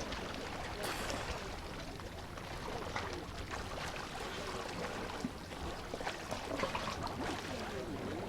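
Sea water splashing and lapping around a swimmer: a steady wash with small splashes and clicks.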